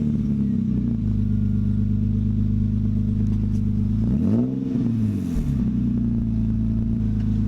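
Nissan VQ35 3.5-litre V6 with a muffler delete, running at a steady idle just after starting, with one quick throttle blip about four seconds in that rises and falls back to idle.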